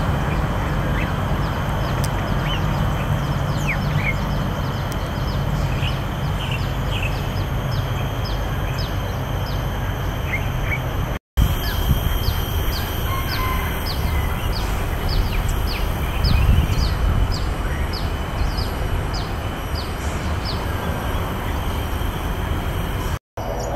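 Outdoor birdsong over a steady low rumble: a bird repeats a short, high, falling note about twice a second, with scattered chirps from other birds. The sound drops out for an instant about eleven seconds in and again near the end.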